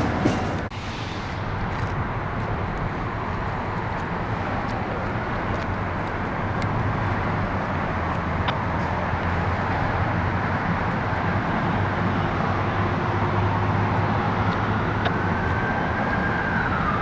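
Steady low vehicle rumble. Near the end an emergency siren starts to wail, its pitch rising and then falling.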